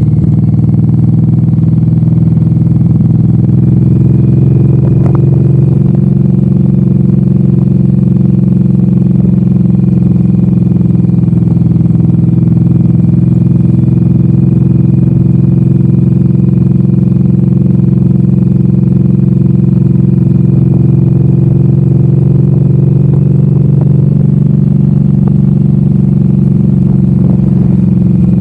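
Suzuki M109R's big V-twin engine running steadily at cruising speed, picked up close by a handlebar-mounted camera, its pitch rising slightly about four to six seconds in and then holding even.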